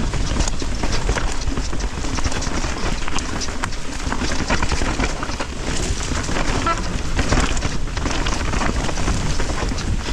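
Mountain bike ridden down a wet, rough trail: steady wind rumble on the microphone with constant rattling and clatter from the tyres and bike over the ground. A brief high squeal about two-thirds through.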